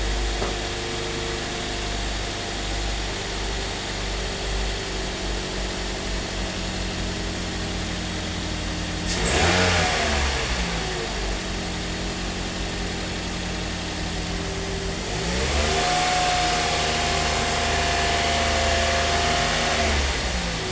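Car engine idling, revved briefly about nine seconds in, then held at raised revs for about five seconds before dropping back to idle near the end, while the battery and charging system are being checked.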